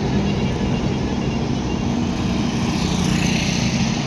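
Road traffic beside a highway: engines of passing cars and trucks making a steady low rumble, with a vehicle going by close about three seconds in.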